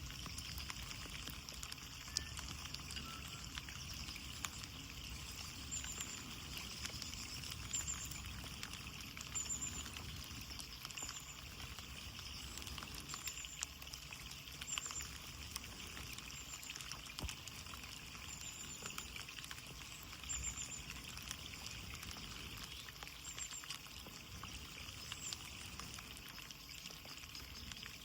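Steady rain pattering on a window pane, with many small drop ticks. A faint short high chirp repeats every second or two through the middle.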